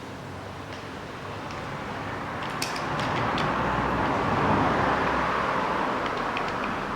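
A vehicle passing by, its noise swelling to a peak about two-thirds of the way through and then fading, with a few light metallic clicks from parts being handled about a third of the way in.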